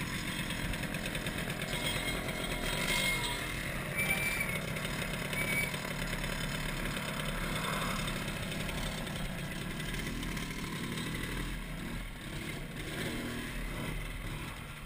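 MZ ETS-250 Trophy Sport's single-cylinder two-stroke engine running at low road speed, settling to idle as the motorcycle rolls to a stop, with a few short high squeaks early on.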